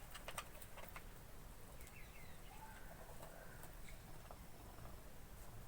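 High flyer pigeons, faint: a few soft clicks at the start, then brief soft calls about two seconds in.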